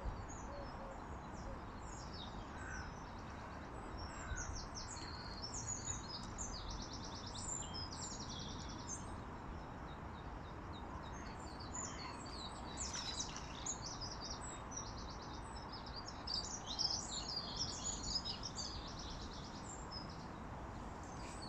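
Small birds chirping and trilling repeatedly over a steady outdoor background rush.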